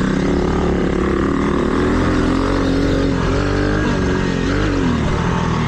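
Mini dirt bike engine running as the bike is ridden, its pitch rising and falling with the throttle, over a steady rushing hiss.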